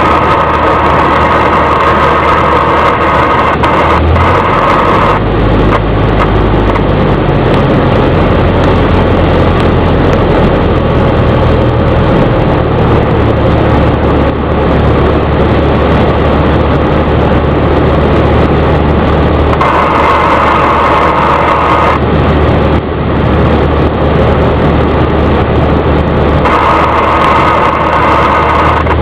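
Cessna 172's piston engine and propeller droning steadily during a landing approach, with the engine note shifting a few times as power is changed. A high steady tone sounds briefly three times over it.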